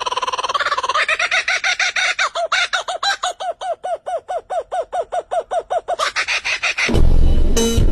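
A bird calling: a held, wavering note, then a fast, even run of short repeated notes, about six a second, that stops about six seconds in. Near the end a louder, low, rough sound cuts in.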